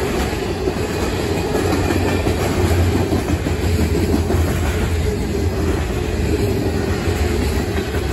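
Freight train cars, tank cars and covered hoppers, rolling past close by: steel wheels running on the rails in a loud, steady rumble.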